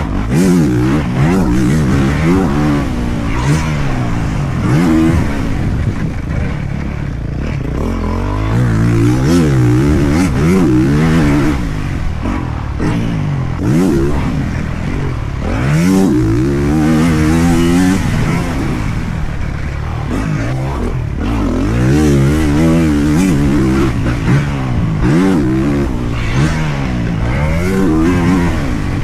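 Dirt bike engine being ridden hard, revving up and dropping back over and over as the throttle opens and closes through the gears, its pitch rising and falling every few seconds.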